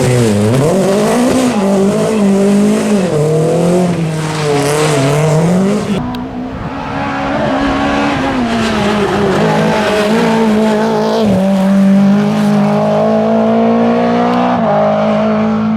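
Renault Clio rally car's engine running hard along a stage, its pitch rising and falling repeatedly as it revs and lifts. After an abrupt change about six seconds in, it climbs more steadily, with a couple of sudden drops in pitch like gear changes.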